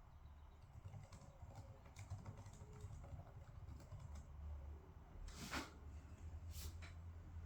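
Faint, irregular typing on a computer keyboard over a low hum, with a louder brief rustle or scrape about five and a half seconds in.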